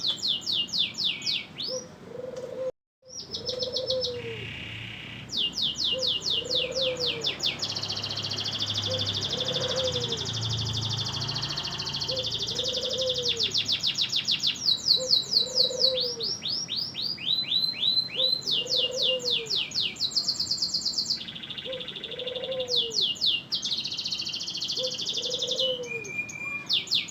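Domestic canary singing continuously in long, fast trills and rolls of sharp, rapidly repeated high notes. Under the song a softer, lower call repeats about every second and a half. The sound drops out for a moment about three seconds in.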